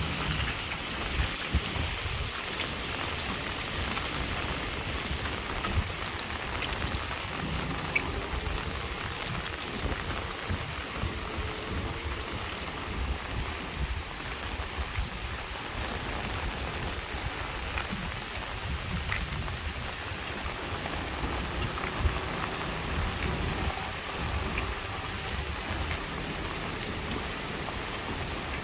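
Heavy rain falling steadily, a dense even hiss of drops on surfaces, with a few sharper drop hits standing out, the loudest about two-thirds of the way through.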